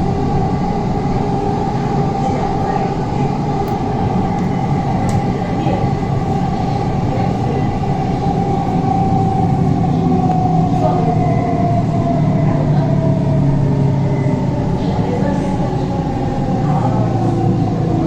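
Kolkata East-West Metro train running between stations, heard from inside the car: a steady rumble with a whine from the drive that drifts gently in pitch.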